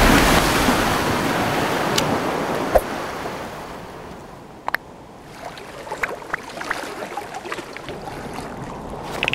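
Rushing wind and sea surf, loud at first and fading away over about four seconds, then a quieter stretch with scattered small clicks and ticks.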